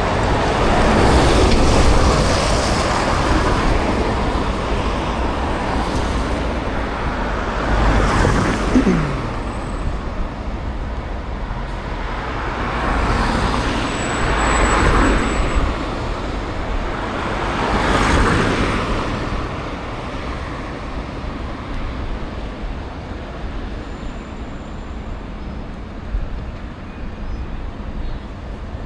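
City road traffic heard from a bicycle. Several motor vehicles pass one after another, each swelling and fading, with one falling engine note as a vehicle goes by about eight seconds in. The traffic thins out in the last third.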